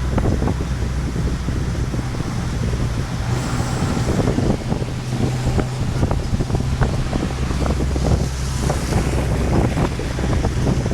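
Heavy rainstorm: a steady rush of rain with wind buffeting the microphone and many sharp ticks, over a steady low hum.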